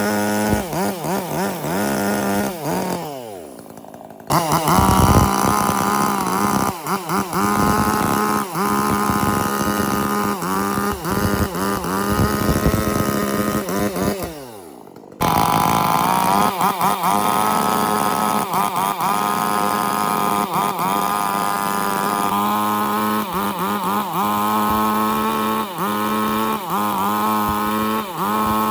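Chainsaw engine running at high revs, its pitch wavering as it cuts into wood. Twice its revs fall away as the throttle is released, and each time it cuts back in suddenly at full speed.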